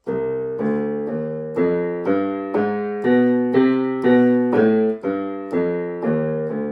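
Casio Casiotone CT-S300 keyboard's sampled piano voice played in its lower register: a slow line of single notes, about two a second, each struck and fading as the next begins.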